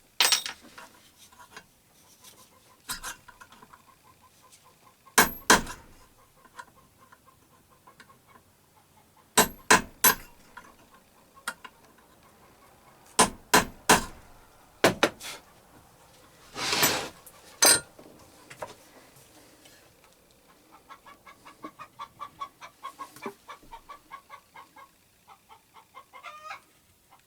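Scattered sharp metallic clicks and knocks of tool work on a belt grinder, with a brief hiss about 17 seconds in. Chickens cluck in the background, in runs of quick repeated calls early on and again near the end.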